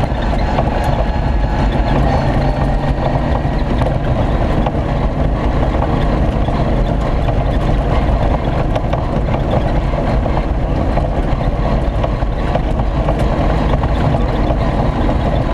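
V8 engine of a Land Rover-based off-road racer running hard at a steady pace, heard from inside the cabin, mixed with tyre and gravel noise from the track.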